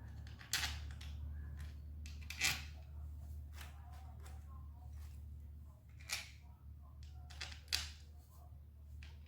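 Scattered sharp clicks and knocks, four of them louder than the rest, over a steady low hum.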